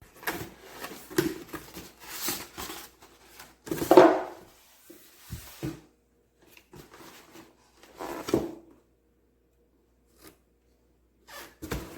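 Irregular rustling, scraping and knocking of things being handled at close range, in short bursts with quiet gaps; the loudest knock comes about four seconds in.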